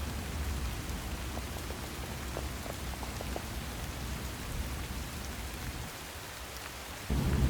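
Steady rain falling, with a few scattered drip ticks. About seven seconds in, a low rumble of thunder comes in suddenly.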